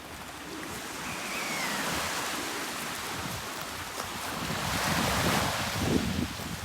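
Sea waves washing in, swelling and easing, with gusts of wind rumbling on the microphone in the second half.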